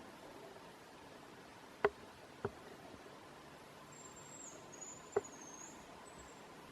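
Hazel grouse whistling its song: a very high, thin drawn-out note running into a short wavering trill, about four seconds in and lasting some two seconds. Three sharp clicks, louder than the whistle, fall around two, two and a half and five seconds in.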